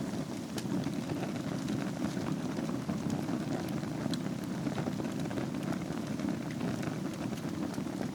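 Wood fire burning in a fireplace over glowing embers: a steady low rush of flames with scattered small crackles and pops.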